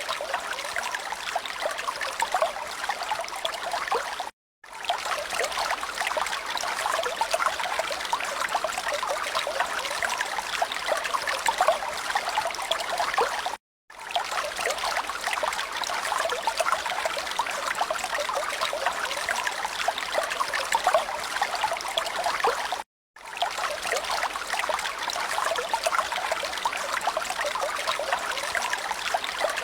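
Running water trickling like a small stream, as an edited loop that cuts to silence for a moment about every nine seconds.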